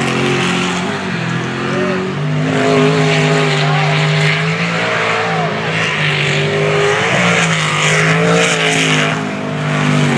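Jet sprint boat's racing engine running hard, its pitch rising and falling repeatedly as the throttle changes through the course.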